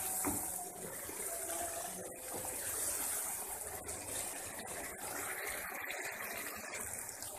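Beef-and-potato masala sizzling steadily in hot oil in the cooking pot while it fries down.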